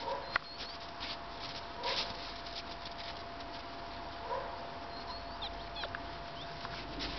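Six-week-old puppies giving a few soft whimpers and small high squeaks, with scattered light clicks and patter, over a steady faint hum.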